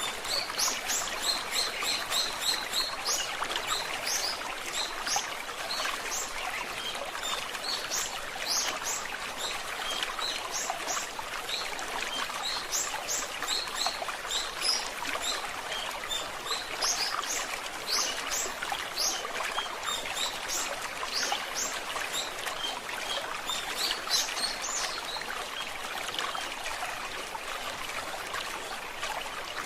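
A stream trickling steadily, with a songbird calling over it in runs of quick, high chirps that stop a few seconds before the end.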